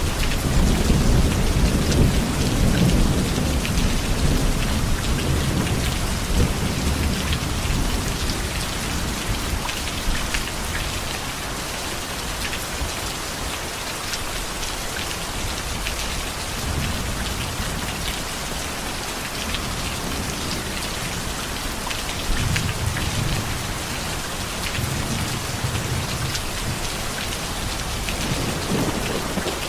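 Heavy rain falling steadily, with low rolling thunder rumbling through the first several seconds and again in the second half.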